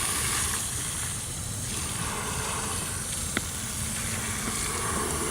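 Water rushing steadily into a Lego dam model as it is flooded, with one sharp click about three and a half seconds in.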